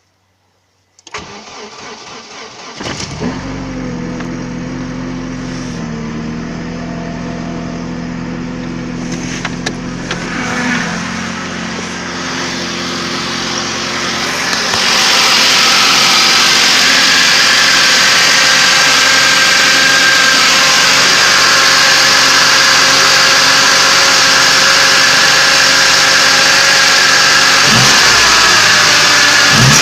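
ZMZ-406 four-cylinder engine of a GAZ-31105 Volga cold-started after standing for days at −7 °C: the starter cranks for about two seconds, the engine catches and settles into a steady cold idle. About halfway through it becomes louder with much more hiss.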